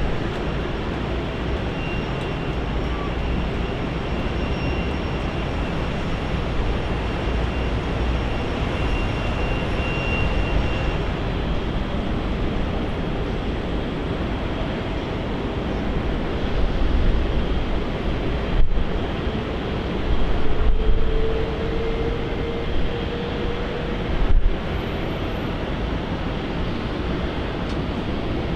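Jet airliner engine noise: a steady rushing sound with a faint high whine over the first ten seconds and a few louder surges past the middle.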